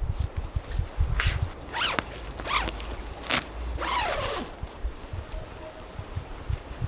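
A zipper pulled in several quick strokes, the last a longer pull that drops in pitch, with wind rumbling on the microphone.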